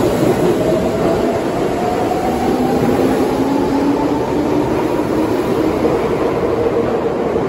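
Tobu 9000-series electric commuter train departing an underground platform, its traction motors giving a rising whine as it gathers speed over a steady rumble of wheels on rail.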